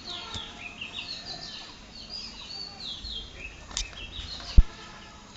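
Several birds chirping busily, in many short calls that fall in pitch. A single sharp thump sounds about four and a half seconds in.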